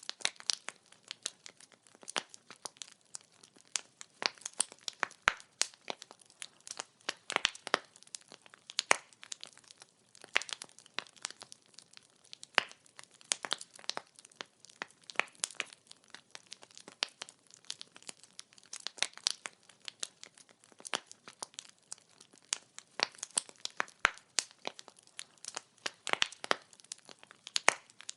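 Wood fire crackling: logs burning, with a dense, irregular run of sharp pops and snaps, several a second.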